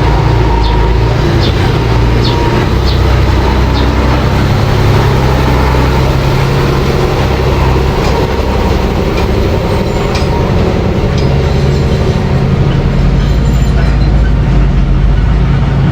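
Mini bulldozer's engine running steadily under load, with sharp metallic clicks from its tracks about once every second in the first few seconds.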